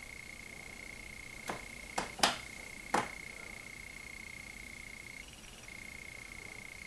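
A steady high-pitched whine with four sharp clicks, about one and a half to three seconds in.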